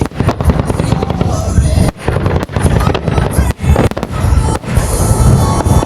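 Fireworks shells bursting in a rapid, continuous barrage of loud booms and sharp bangs, with music playing alongside.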